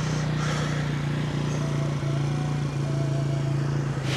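Quad bike (ATV) engine idling steadily.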